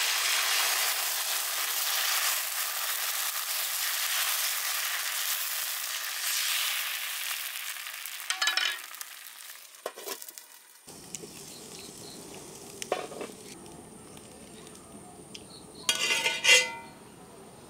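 Dosa batter sizzling on a hot cast-iron tava as it is ladled on and spread out. The sizzle is loud at first and fades over about ten seconds. It then gives way to a quieter steady background, with a few light clinks near the end.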